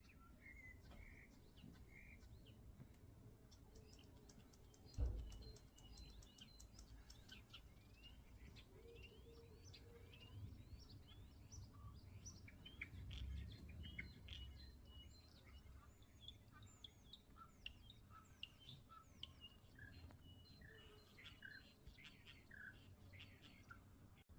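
Common starling singing: a long, varied run of short whistles, clicks and chirps. A single thump about five seconds in.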